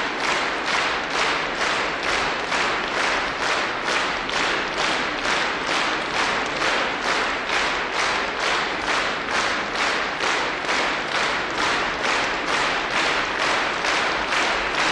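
Concert audience clapping in unison in a steady rhythmic ovation, about two claps a second.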